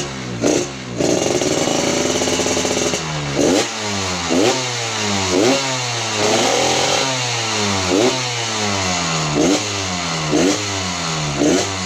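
Motorcycle engine through an RAS racing-style exhaust being revved: a held rev for the first few seconds, then a run of short throttle blips about once a second, each pitch climbing sharply and falling back toward idle.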